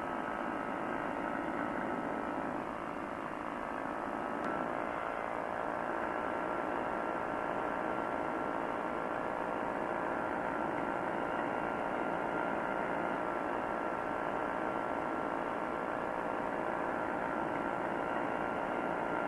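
Quicksilver ultralight airplane's engine and propeller running steadily in cruise flight: a constant drone of several held tones over a rushing noise.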